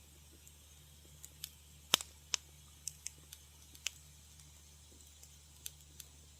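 Wood fire crackling in a fireplace: irregular sharp pops and snaps, about a dozen, the loudest just before two seconds in, over a faint low hum.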